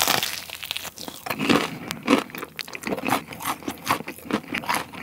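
A bite into a piece of boneless cheese-crispy fried chicken, with a loud crunch of the coating at the start, then mouth-close crunchy chewing at about three crunches a second.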